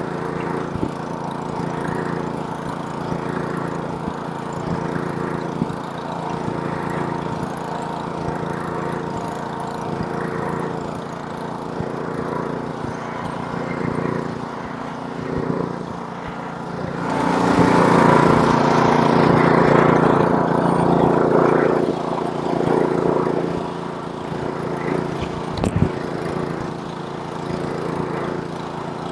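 Snowblower's small gas engine running steadily as it clears snow. Past the middle it swells louder and noisier for about five seconds, and there is one sharp click near the end.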